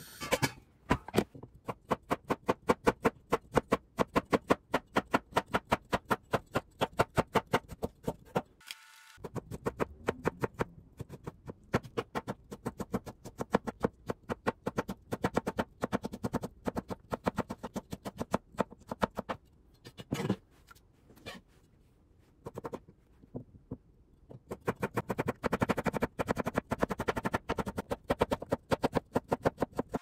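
Kitchen knife chopping rapidly on a cutting board, about five even strokes a second, pausing briefly about nine seconds in and again for a few seconds past the two-thirds mark before resuming.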